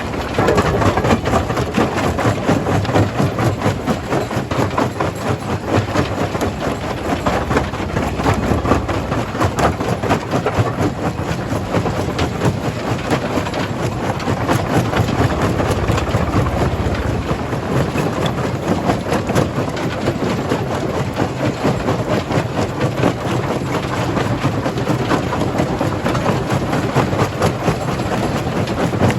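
Jaw crusher running and crushing stone: a continuous heavy grinding clatter packed with rapid knocks of rock against rock and steel.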